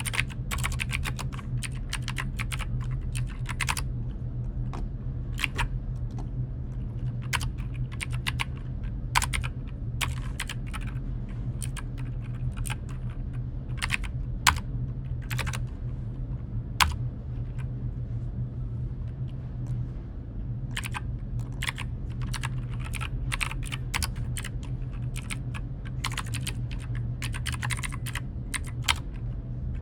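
Computer keyboard typing in irregular runs of key clicks, with a few louder single keystrokes and a pause of several seconds in the middle, over a steady low hum.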